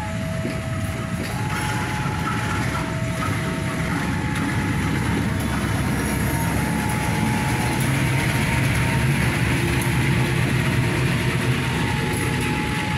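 A train rumbling along the tracks, building to its loudest about ten seconds in, while a two-tone warning signal keeps alternating between a lower and a higher pitch every second or so.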